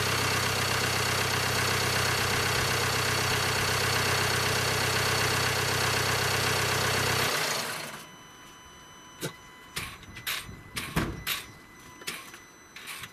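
Land Rover Discovery Sport engine idling steadily, then switched off about seven seconds in, the running sound cutting off within about half a second. A few sharp clicks and knocks follow in the quiet.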